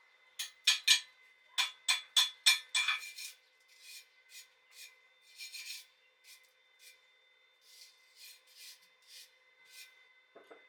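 Rhythmic hand strokes scraping across steel, as when a weld or plate is brushed or filed. About three loud strokes a second for the first few seconds, then lighter, more widely spaced strokes.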